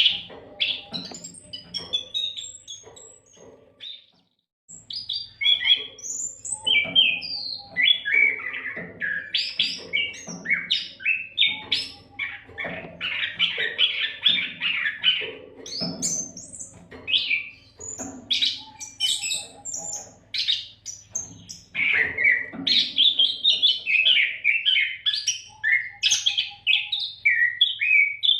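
Oriental magpie-robin (kacer) singing a fast, varied song of whistles and chirps with hardly a break, pausing briefly about four seconds in. A faint low hum runs underneath.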